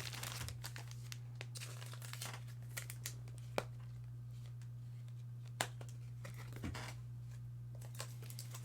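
Baseball cards and pack wrappers being handled: soft rustling and crinkling with a few sharp clicks, over a steady low electrical hum.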